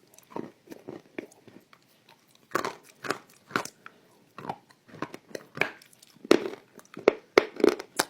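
Close-up bites and chewing of something crunchy: an uneven run of sharp crunches, with louder bursts about two and a half seconds in and again near the end.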